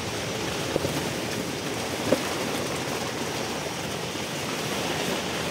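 Steady rushing noise of a heavy rainstorm, with two faint knocks about one and two seconds in.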